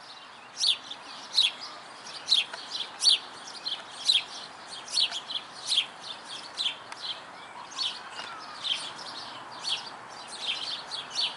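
A sparrow chirping steadily, short sharp calls about two a second, over a faint background hiss.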